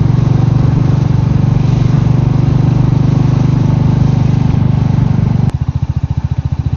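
Royal Enfield Meteor 350's single-cylinder engine running on the road, with wind and road hiss over it. About five and a half seconds in, the sound changes suddenly to an even beat of separate exhaust pulses, with much less hiss.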